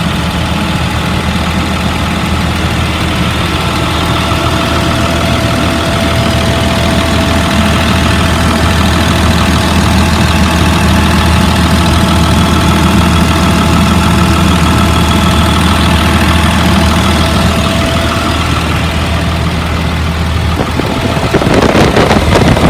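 2004 Blue Bird All American school bus engine idling steadily, running smooth and sounding healthy. A thin steady whine sits over it through the middle, and the sound grows louder near the end.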